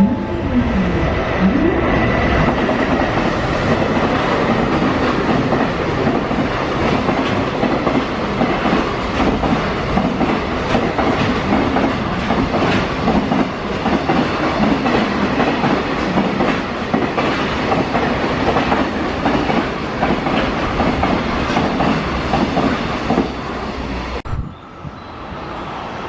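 A freight train running past, its wheels clattering steadily over the rail joints, with a loud mix of rumble and rattle. It drops away sharply near the end.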